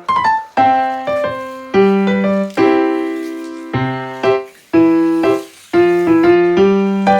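Background piano music: a steady run of single struck notes and chords, each decaying before the next.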